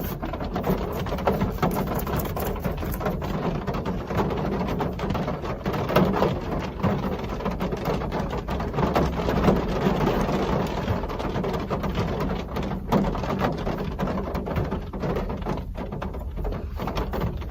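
Real rain falling: a steady, dense patter of many drops.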